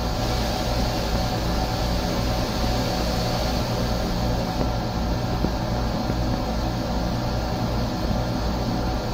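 Steady rumble and hiss of a Long Island Rail Road M7 electric railcar running, heard inside its small restroom.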